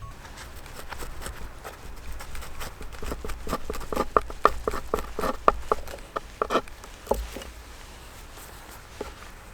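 A quick run of light, sharp taps or knocks, about four a second, building up a few seconds in and thinning out to a few scattered ones near the end.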